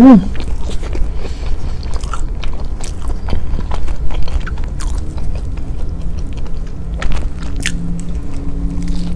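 Close-miked chewing and biting of toast topped with a fried egg and avocado: wet, crunchy mouth sounds with many small clicks, a short hummed 'mm' right at the start, and a fresh bite near the end.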